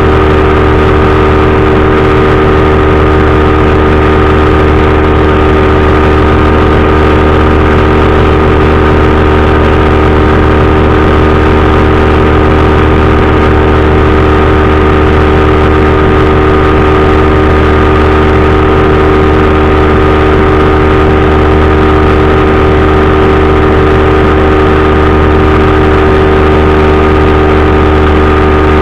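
Powered parachute's engine and propeller running at a steady throttle, a loud, unchanging drone with several steady tones.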